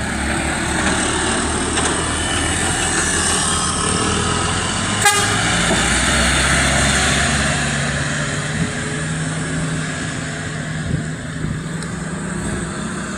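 Heavy truck engines running in slow, jammed road traffic, with one short horn toot about five seconds in.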